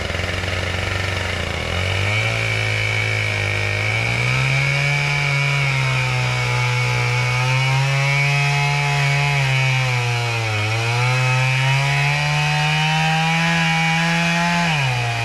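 Chainsaw cutting through a tree trunk in a felling cut. Its pitch rises and sags repeatedly as the chain loads up in the wood, dips about ten seconds in, and drops near the end.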